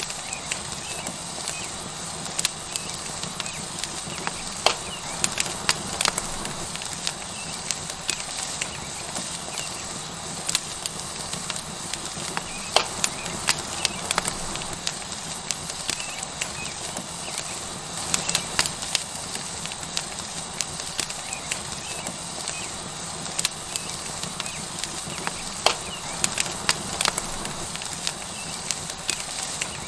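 Tomahawk steak sizzling on a hot rock over a wood fire: a steady hiss with frequent sharp crackles and pops.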